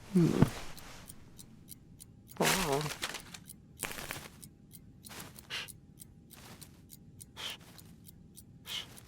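Cartoon cat vocal effects: a short falling call just after the start and a wavering pitched call about two and a half seconds in, followed by several short breathy sounds. A faint, even ticking runs underneath.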